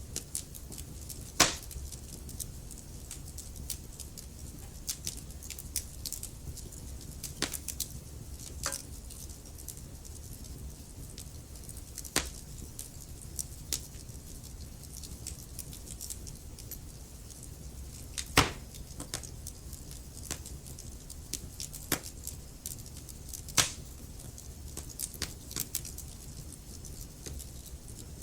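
Wood fire burning in a fireplace: a steady low rumble under frequent small crackles, with a few sharp pops standing out, the loudest about a second in and again just past the middle.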